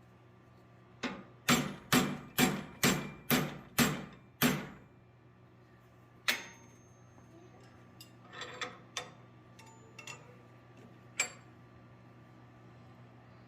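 Blacksmith's hammer striking steel on an anvil: a run of about eight blows roughly half a second apart, then single strikes and a few lighter taps, over a steady low hum.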